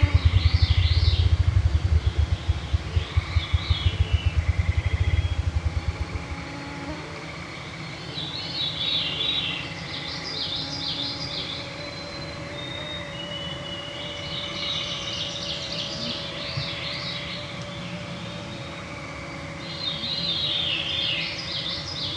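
Evening forest birdsong, with cascading song phrases repeating about every ten seconds, over the steady whine of mosquitos. A deep, rapid throbbing fills the first six seconds or so and then stops.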